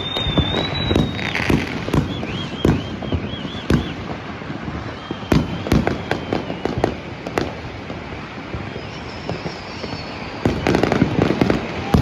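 New Year's Eve fireworks and firecrackers going off: many sharp bangs and pops, with several whistles that waver in pitch, and a dense run of bangs near the end.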